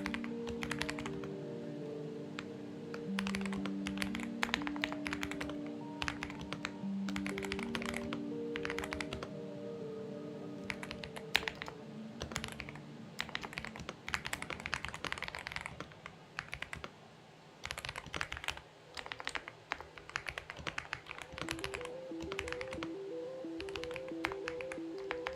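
Typing on a Xinmeng X98 mechanical keyboard: runs of quick keystroke clacks with short pauses, one longer lull about two-thirds of the way through. Background music with held notes plays underneath.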